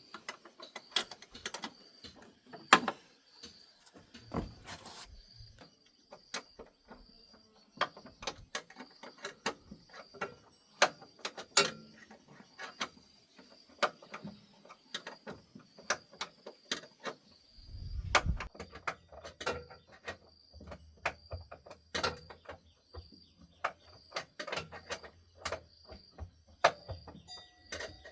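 Irregular clicks and knocks of hand tools being handled during car repair work, over a steady high-pitched tone; a low hum comes in a little past halfway.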